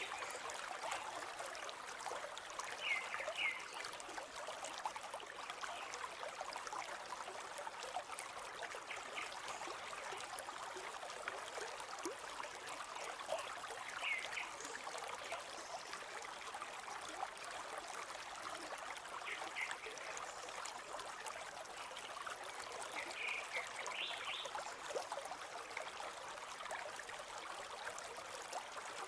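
River water flowing steadily, an even trickling and babbling, with a few brief brighter blips standing out about four times.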